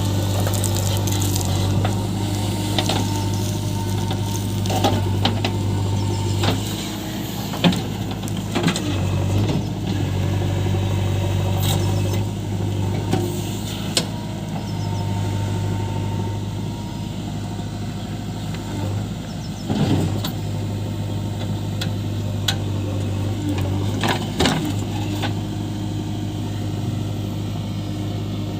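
JCB 3DX backhoe loader's diesel engine running steadily, with scattered sharp clanks and knocks over it.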